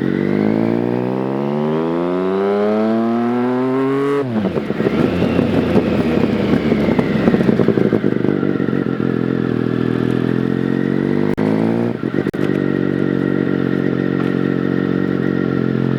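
Triumph Daytona 955i's inline-three engine through an aftermarket Wolf/Trident exhaust with road-legal baffles. It rises in pitch under acceleration, falls sharply about four seconds in, then runs at a steadier pitch with two brief dips near twelve seconds.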